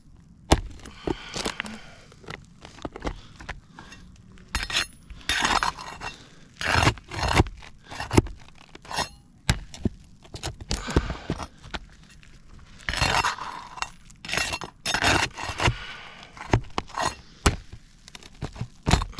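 Flat pry bar working under old, brittle 3-tab asphalt shingles to lift them and pull the roofing nails: irregular scrapes and cracks with sharp metal clinks.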